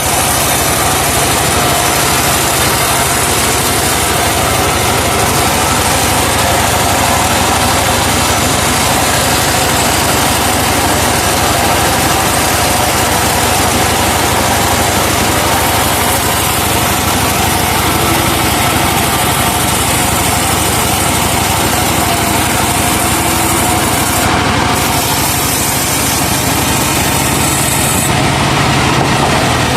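Truck-mounted sawmill running steadily, its engine driving the saw as it cuts laban wood.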